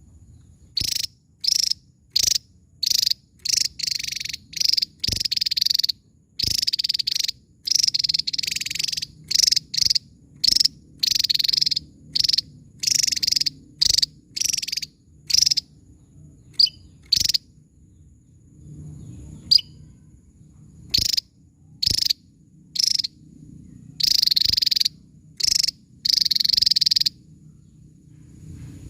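Javan tesia singing: a long run of short, high, noisy bursts in quick succession, with a break of a few seconds past the middle before the bursts resume.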